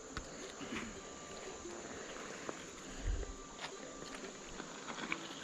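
Faint outdoor ambience with insects, a few small clicks and a low bump about three seconds in.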